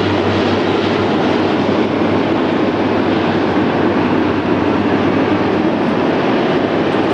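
Four-engine turboprop KC-130 Hercules tanker transport running at high power on its takeoff, a loud steady rumble.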